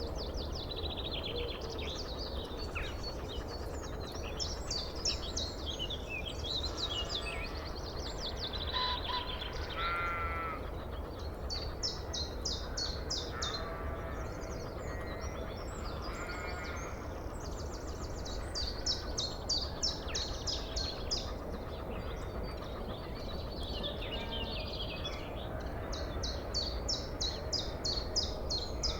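Songbirds singing, with many rapid high trills, while sheep bleat now and then. A steady low rumble runs underneath.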